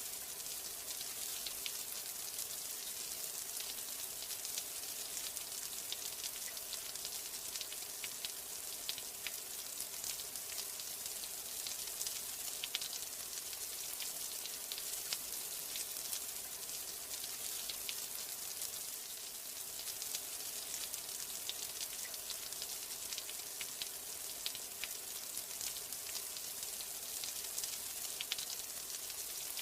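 Steady rain: an even hiss made up of countless small drop ticks, unchanging throughout.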